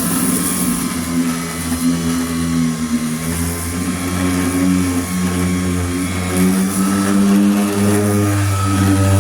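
Power sander running on body filler on a truck door, a steady motor hum whose pitch drifts slightly up and down as it works.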